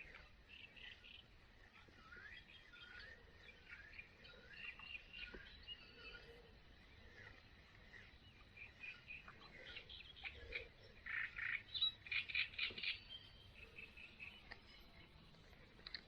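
Songbirds chirping and singing, with a busier run of quick repeated chirps about ten seconds in.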